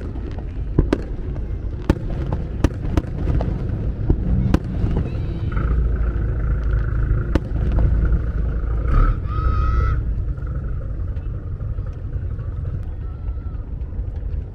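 Aerial fireworks crackling and popping in a series of sharp cracks over a steady low rumble, the cracks thinning out after the first half. A held high-pitched tone sounds for about four seconds in the middle.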